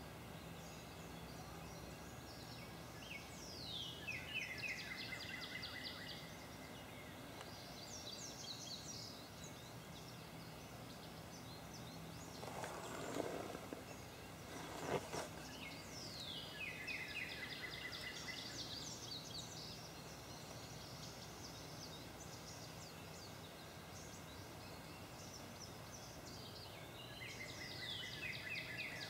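A songbird singing, four times, a phrase that starts with a high falling note and breaks into a fast trill. Underneath is a steady outdoor background with faint high steady tones. Two short knocks with rustling come about halfway through.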